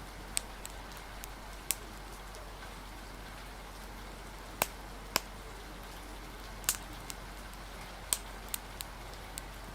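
Steady hiss of rain with irregular sharp pops and snaps from a crackling wood fire, about a dozen of them scattered through.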